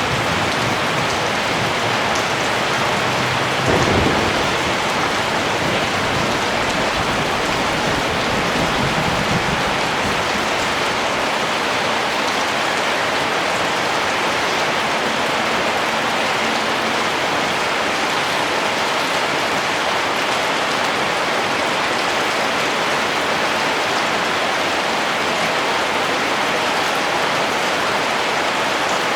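Steady rain falling. About four seconds in, a low rumble of thunder breaks in and dies away over the next several seconds.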